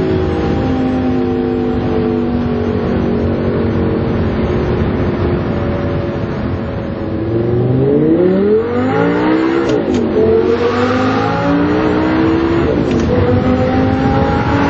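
Audi R8's 5.2-litre V10 through an AWE Tuning SwitchPath aftermarket exhaust, running at a steady pitch, then accelerating hard about halfway in with the note rising. The pitch drops at a gear change, climbs again, then settles.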